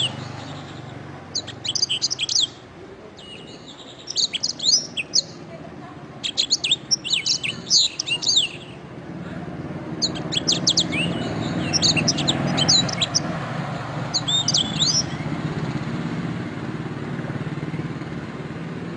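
Canary singing in short bursts of fast high trills and whistled sweeps, with pauses between phrases; the song stops a few seconds before the end. A low steady rumble runs underneath and grows louder about halfway through.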